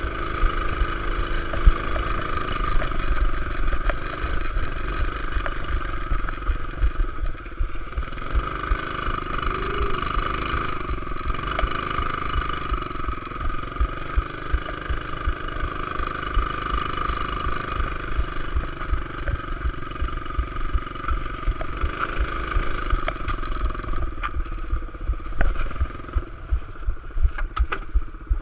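Pit bike engine running, its revs rising and falling.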